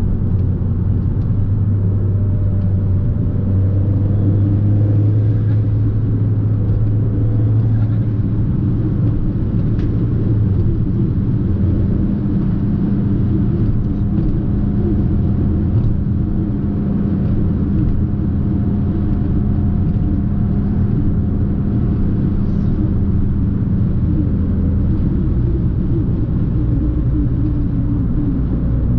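Fiat 500 Abarth's 1.4-litre turbocharged four-cylinder engine pulling steadily on the road, with tyre and road noise. The engine note changes pitch about a third of the way in and again near the end.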